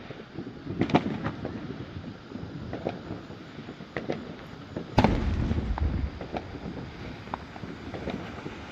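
Fireworks going off at a display: a run of scattered booms and pops, the loudest bang about five seconds in, trailing off in a low rumble.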